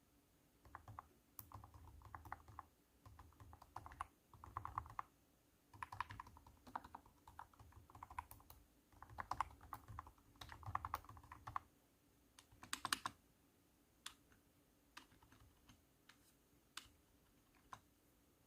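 Typing on a cat-shaped keyboard, its keystrokes deep and thunky, in quick runs for about eleven seconds. A louder burst of keys follows, then a few slow single presses.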